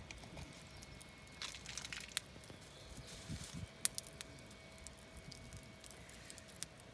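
Campfire burning, the wood crackling with scattered sharp pops, one louder snap near the middle; a faint steady tone runs underneath.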